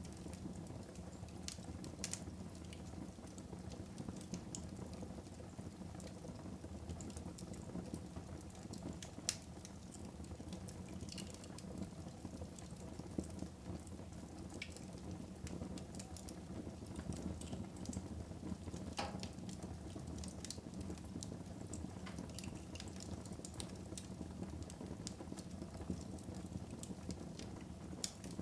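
Fire burning in a fireplace: a steady low rush with sharp crackles and pops at irregular intervals, a few louder snaps standing out, around nine and thirteen seconds in.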